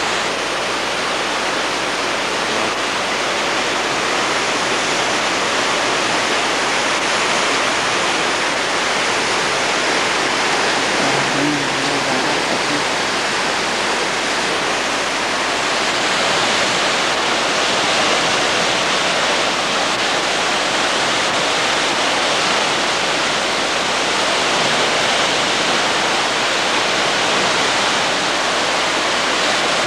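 Flash-flood water rushing down a wadi channel, a loud, steady rush of torrent.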